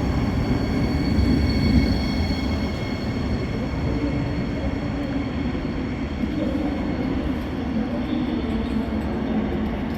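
A train running at a station platform: a steady low rumble, with thin high whining tones that fade away over the first few seconds.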